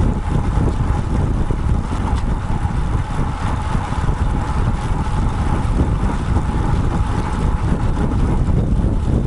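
Wind buffeting the microphone of a bicycle-mounted action camera while riding, a steady loud rumble with a faint thin whine running through it.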